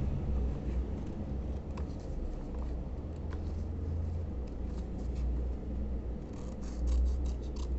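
Scissors cutting through paper: scattered small snips and paper rustles, with a run of quicker snips near the end, over a low handling rumble.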